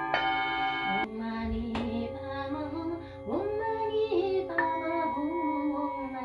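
Singing bowls struck several times and ringing in long, overlapping steady tones, with a woman's voice singing a gliding, wordless line over them from about a second in.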